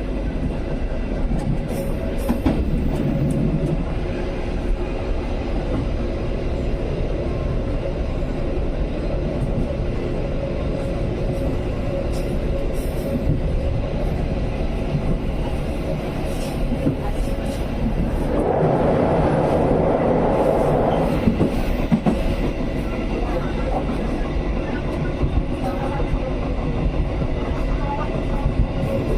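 Steady rumble of a moving passenger train heard from on board, with wheel noise on the rails. A louder rush of noise swells for about two seconds roughly two-thirds of the way through.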